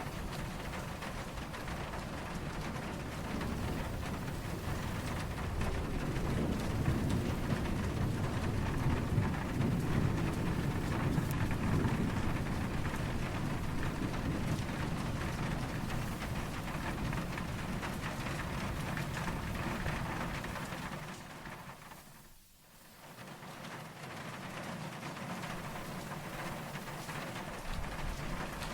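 Steady rain falling, with a low rumble of distant thunder swelling and fading in the first half. About three quarters of the way through, the sound dips sharply for about a second, then the rain returns.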